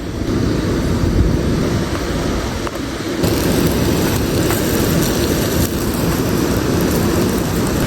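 Steady rushing roar of a waterfall, with a deep rumble underneath; the hiss grows brighter about three seconds in.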